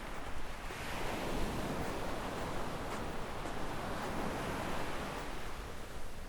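Sea waves washing up a sandy beach. The rush of surf swells about a second in and eases off near the end.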